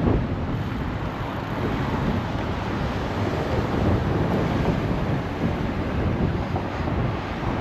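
Steady low rumble of wind buffeting an action camera's microphone while cycling, mixed with road and traffic noise.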